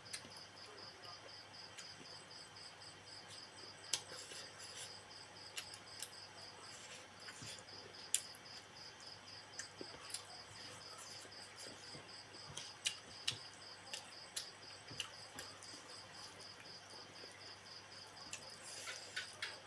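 A cricket chirping in a steady pulsing trill. Scattered short clicks and taps sound over it, with a quick run of clicks near the end.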